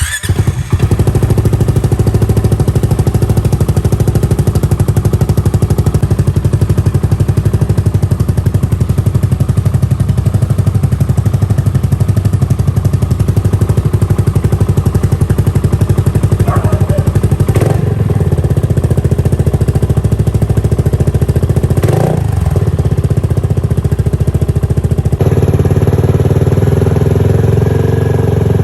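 Kymco Xciting 400 scooter's single-cylinder four-stroke engine, fitted with an Akrapovic exhaust, starts up suddenly and then idles with a steady, deep pulsing beat through the aftermarket exhaust.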